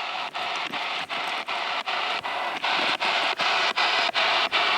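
Spirit box scanning through radio frequencies: a steady hiss of static broken by short dropouts about four times a second.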